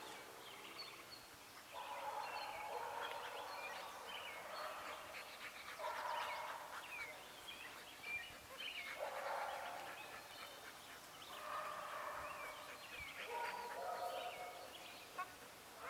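Birds calling: lower calls a second or two long repeat every couple of seconds, with quick, higher chirps between them.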